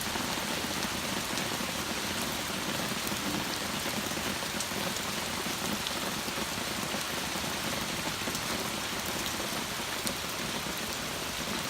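Torrential rain pouring down and drumming on surfaces, a steady dense hiss with scattered drop ticks.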